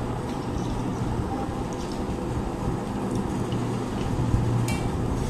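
Eating at the table: a steady low hum in the room under a few light clinks of dishes, one ringing clink near the end.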